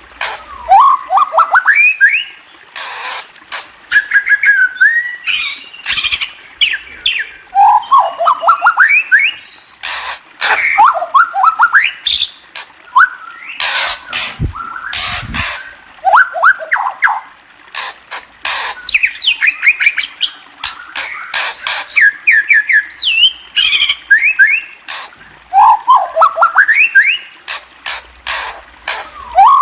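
A murai songbird singing loudly: repeated phrases of quick notes that climb in pitch within each run, broken up by sharp clicks.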